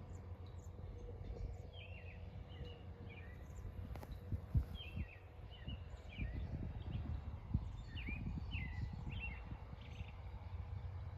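Outdoor farm ambience: small birds chirping over and over in short, quick falling calls, over a steady low rumble with irregular low thumps.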